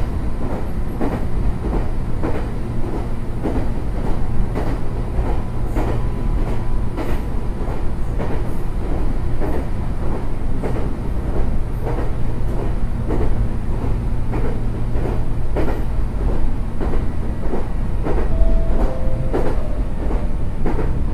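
Meitetsu 6800 series electric commuter train running along the track, heard from inside the car: a steady low rumble with rail-joint clicks about once a second.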